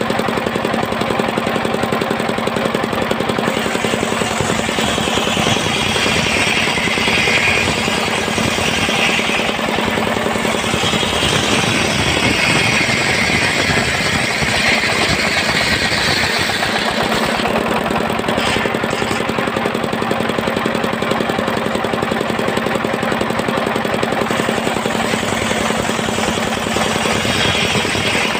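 Engine of a portable circular sawmill running steadily, with the saw blade cutting through wood in two long stretches, about five to nine seconds in and again from about ten to sixteen seconds in.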